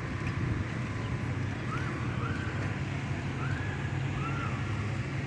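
Steady low rumble of a car engine idling, with four faint short chirps over it in the middle.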